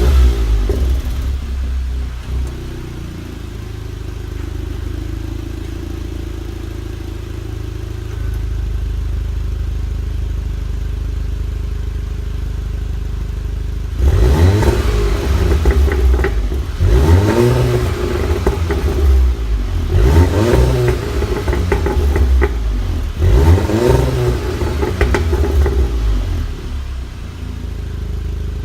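VW Golf R Mk7's turbocharged 2.0-litre four-cylinder, breathing through an exhaust with the resonator removed, flaring just after start-up and settling into a steady idle. About halfway through it is blipped repeatedly in free revs, each rising and falling quickly, one every couple of seconds.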